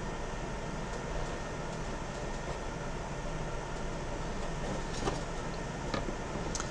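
Steady low room hum and hiss, with a few faint light clicks near the end.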